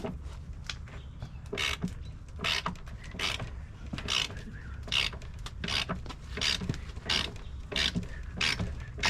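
Ratchet wrench being swung back and forth, a short ratcheting rasp roughly once a second, over a steady low hum.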